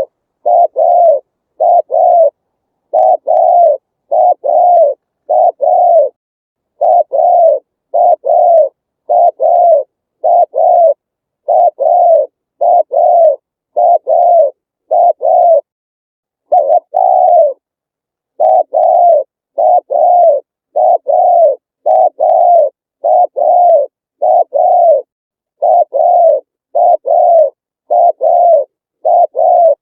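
Spotted dove cooing: a long run of low, rounded coo notes, about one to two a second in short groups, with silence between the notes and a few slightly longer pauses.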